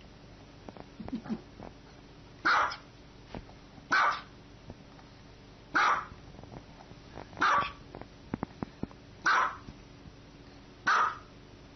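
A small dog barking: six single barks, evenly spaced about a second and a half apart, beginning a couple of seconds in.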